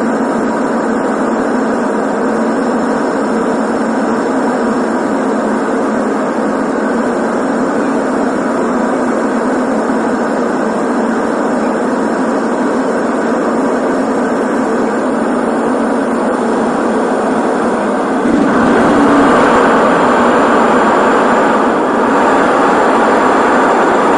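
Airplane landing: a steady, loud engine and air noise from the aircraft, which grows louder and fuller about eighteen seconds in.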